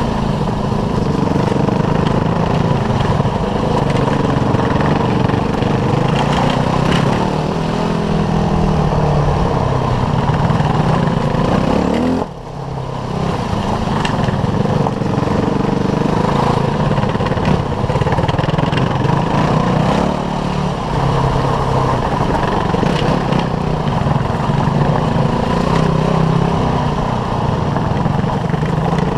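Dirt bike engine running at varying revs on a gravel trail, the note rising and falling with the throttle. About twelve seconds in the engine sound drops sharply for a moment, then picks back up.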